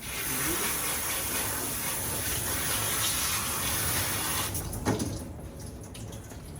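Water spraying from a tap or bath sprayer, a steady hiss that starts suddenly and cuts back after about four and a half seconds, followed by a single knock.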